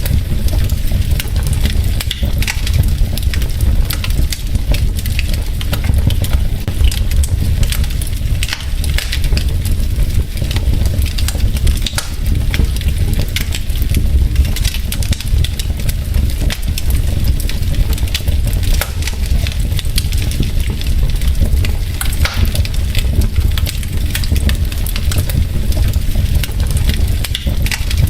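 Wood fire burning in a fireplace: logs crackling with dense, irregular clicks over a steady low rumble.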